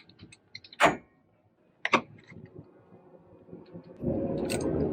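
Hand tools, pliers, knocking and clicking against a broken water line while it is being repaired, with two sharp knocks about a second apart. Near the end a louder rushing, rustling noise starts.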